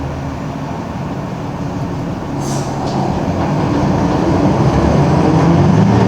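Mercedes-Benz OM-366LA six-cylinder turbo diesel of a city bus running under way, growing louder from about two seconds in as it pulls. A short high hiss comes about two and a half seconds in.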